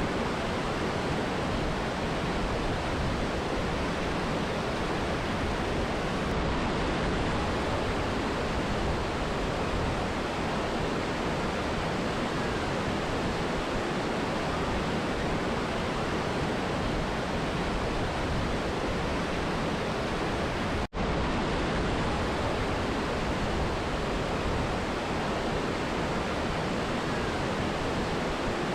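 Steady rushing of a mountain river and waterfall, an even roar of falling water. It breaks off for a split second about two-thirds of the way through.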